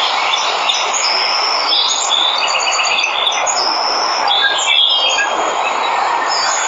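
Steady rushing of a waterfall, with birds chirping over it in quick series of short, high calls, busiest through the middle.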